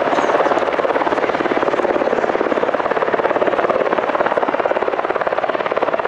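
Helicopter flying at an air show display, its rotor giving a fast, even chopping beat that holds steady throughout.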